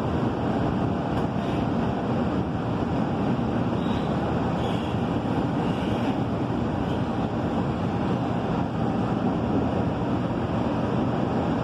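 Steady rumble and rush of a passenger train heard from inside the carriage as it runs along the track, with a few faint, brief high squeaks around the middle.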